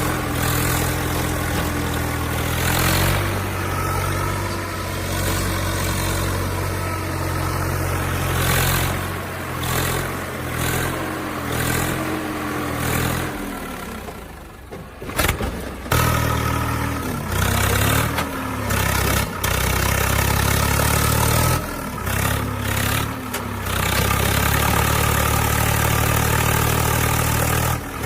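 Heavy diesel engine running and revving up and down, heard in a string of short clips that cut abruptly from one to the next, with a brief quieter gap about halfway through.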